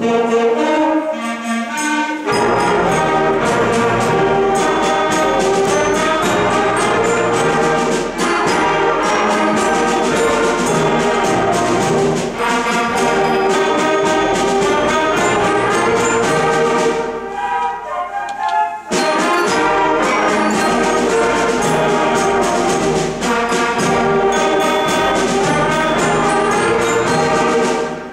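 Sixth-grade concert band playing, brass to the fore over percussion, with a brief lull about two-thirds of the way through before the full band comes back in.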